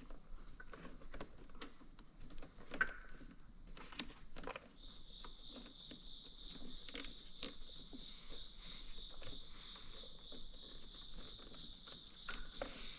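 Insects chirring steadily at a high pitch, a second one joining at a slightly lower pitch about five seconds in, with scattered light clicks and taps.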